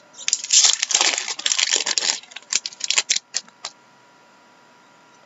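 Plastic trading-card packaging crinkling loudly as it is handled and pulled open, followed by a few short separate crackles before it stops.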